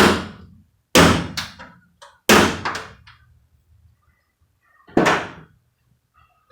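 Hammer striking a small punch to drive the steel center pins out of the window regulator's aluminum-headed factory rivets in a truck door: four sharp metallic blows, about a second in, two seconds in and five seconds in after the first, each ringing briefly, with a lighter extra tap after the second.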